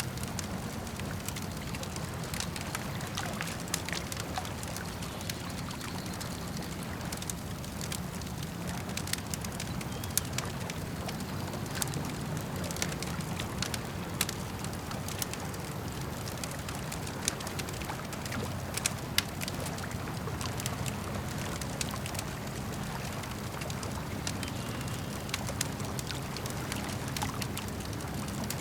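Campfire crackling and popping, with many small snaps and a few sharper pops, over a steady low rush of lake water lapping.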